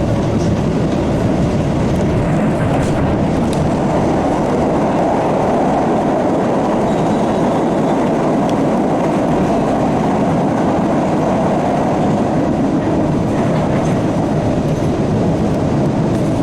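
MBTA Blue Line Siemens 700 Series subway car running along the track, heard from inside the car: a steady rumble of wheels on rails with a few faint clicks.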